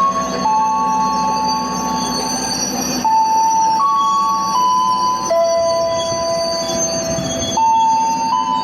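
Passenger train rolling into a station, its wheels squealing in sustained high tones that jump abruptly from pitch to pitch every second or two, over the low rumble of the train.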